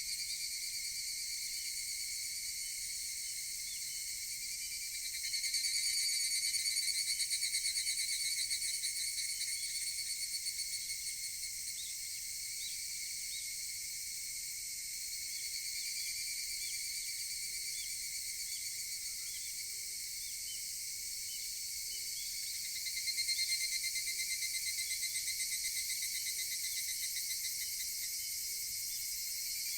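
Higurashi (evening cicadas) calling in chorus: a steady, fast-pulsing high trill that swells louder twice, about five seconds in and again past the twenty-second mark.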